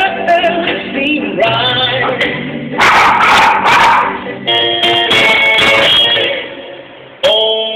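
A dog howling along to music, its wavering howl strongest early on, with a louder yelp-like burst about three seconds in. Steady musical tones carry the second half.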